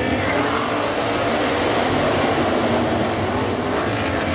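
Several winged sprint cars' V8 engines running at race speed, a loud, steady wash of engine noise.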